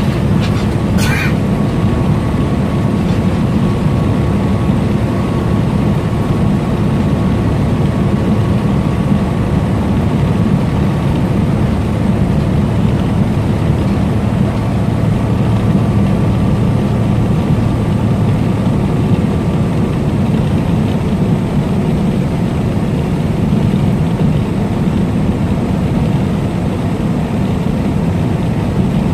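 Semi-truck driving at highway speed: a steady low engine and road drone. A brief sharp click about a second in.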